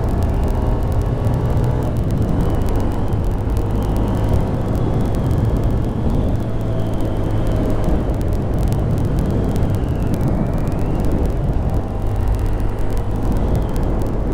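Honda Grom 125's small air-cooled single-cylinder engine running at a steady cruise, with wind rushing over the microphone.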